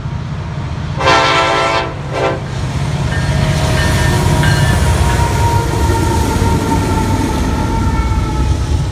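Freight train's diesel locomotives sounding a multi-chime air horn, one longer blast about a second in and a short one right after. Then the locomotives and cars run past close by with a heavy, steady rumble.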